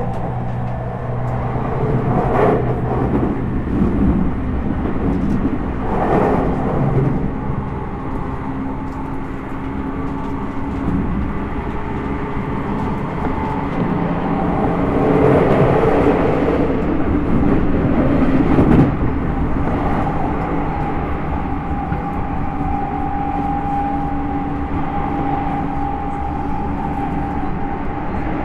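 Tokyu 5050 series 4000-subseries electric train running, heard from inside the car: a steady rumble of wheels on rail with level motor tones, swelling louder a few times.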